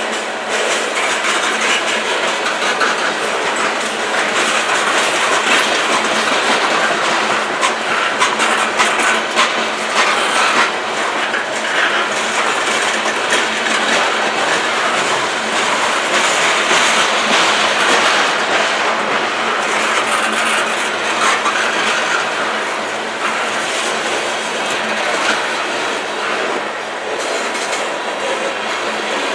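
Freight train cars rolling past, their wheels clacking over the rail joints in a steady stream of clicks over a continuous rolling noise.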